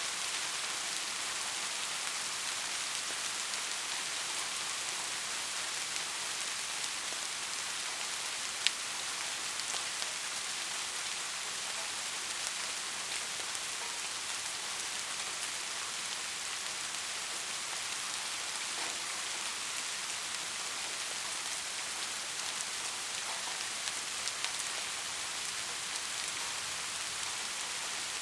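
Steady rain falling, an even hiss with scattered individual drops ticking. One sharper drop tick stands out about nine seconds in.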